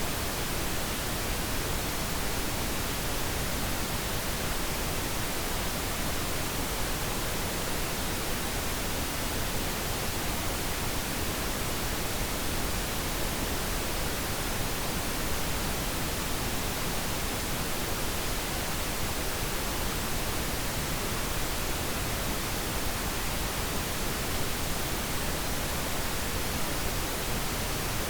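Steady pink noise: an even, unchanging hiss, used as a sleep sound for babies.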